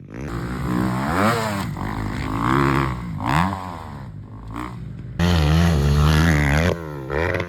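Motocross engine revving hard, its pitch climbing and dropping again and again with the throttle and gear changes. About five seconds in it jumps to a louder, steadier run, then drops off sharply near the end.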